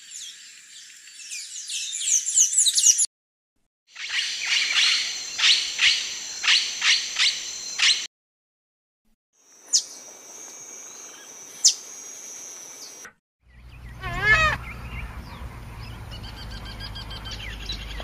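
Songs and calls of several different birds in turn, each a few seconds long with short silences between. First comes quick high twittering from a blue-gray tanager, then a louder run of clear whistled notes. Next is a thin steady high note with two sharp chips from a green honeycreeper, and last a wavering call over a low steady rumble.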